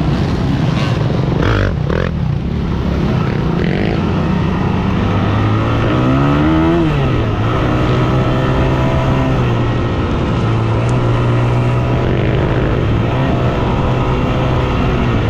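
Yamaha WR250F single-cylinder four-stroke dirt-bike engine running steadily on the trail. Its pitch rises about six seconds in and drops back a second later, and there are two short knocks about two seconds in.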